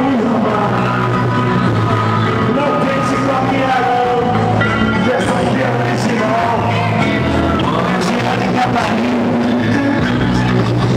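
Loud music with singing played over a pickup truck's car-audio sound system, with a heavy, steady bass line.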